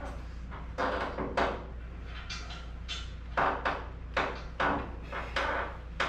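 A car jack being worked to lift the car: a run of short strokes, roughly two a second, over a steady low hum.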